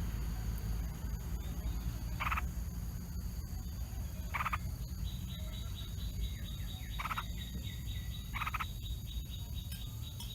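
Outdoor animal calls: four short, harsh calls spaced about two seconds apart, joined from about halfway through by a fast, high, ticking trill, over a steady low rumble.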